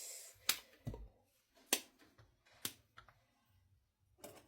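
Kitchen clatter: about six separate sharp clicks and taps spread over four seconds as utensils and containers are handled.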